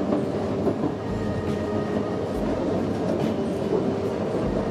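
Running noise of a train heard from inside a passenger carriage: a steady rumble of the wheels on the rails, with a few faint clacks at uneven intervals.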